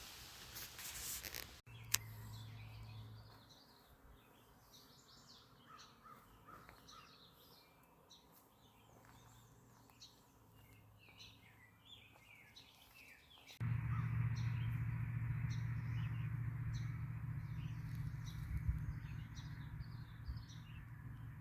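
Birds calling and chirping, with a single sharp click near the start. About two-thirds of the way in, a louder steady low hum with hiss comes in under the birdsong.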